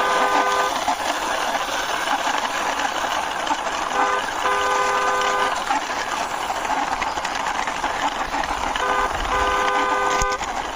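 A horn sounding a short toot followed by a longer one, repeated three times about every four and a half seconds, over a steady rushing noise as a toy car is pushed along by hand.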